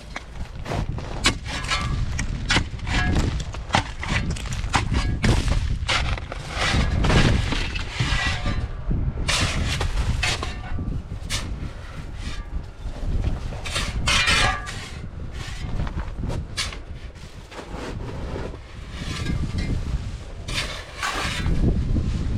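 Icy snow being struck and broken apart: a long run of irregular hard knocks and cracks, sometimes several a second, over a steady low rumble of wind on the microphone.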